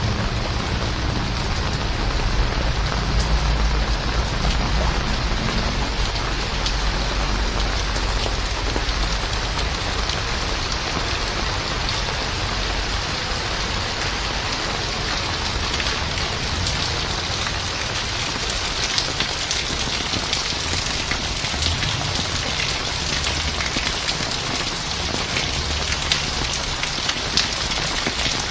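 Heavy rain falling steadily, with close raindrops ticking on surfaces. A low vehicle rumble is heard for the first several seconds and then fades away.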